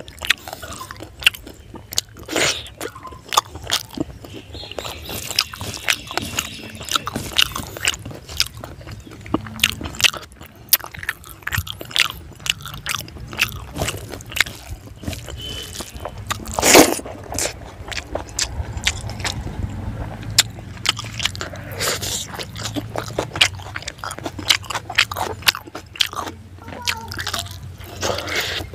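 Close-up eating sounds: a person chewing and crunching fried fish head by hand, with frequent wet smacks and clicks of mouth and fingers. One louder crunch comes about halfway through.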